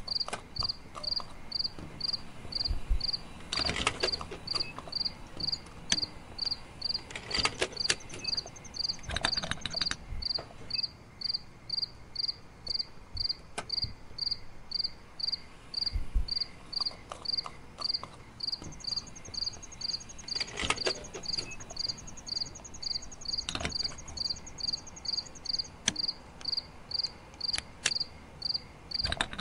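Crickets chirping in a steady, evenly spaced rhythm, a little over two chirps a second, with a higher insect trill joining twice. Short rustles and taps of plastic plants being pushed into sand come through now and then.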